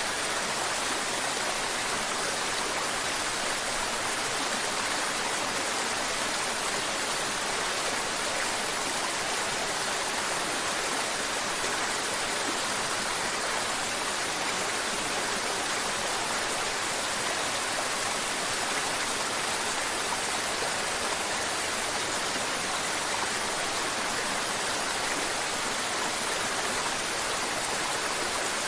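Mountain river water flowing and babbling, a steady, even rush that never breaks.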